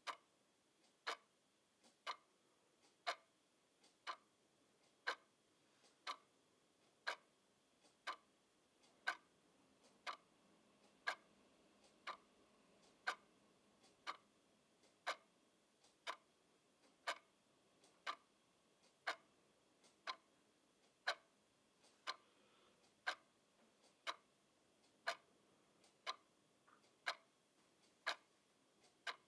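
Clock ticking steadily about once a second, the ticks alternating louder and softer in a tick-tock rhythm.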